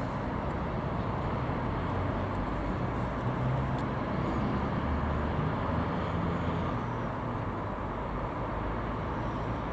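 Steady low rumble of distant vehicles, swelling slightly around the middle, with no distinct events.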